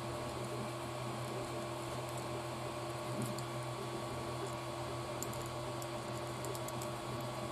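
A steady background hum, with a few faint light clicks of small plastic kit parts being handled and fitted, a cluster of them in the second half.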